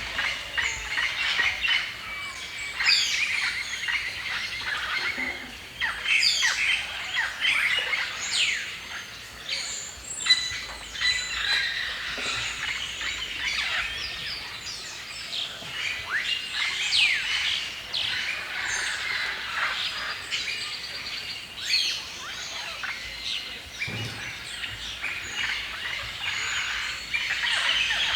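Many songbirds chirping and singing at once in a forest, their calls overlapping without pause, with many quick sweeping chirps and whistles.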